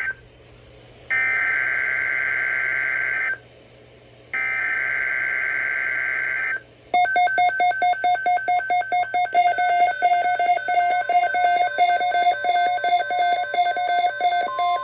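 Emergency Alert System SAME header data bursts: warbling digital tones about two seconds long, each followed by a second of quiet. From about seven seconds a rapidly pulsing electronic alert tone follows, and just at the end a steady NOAA Weather Radio warning tone joins it, announcing a tornado watch.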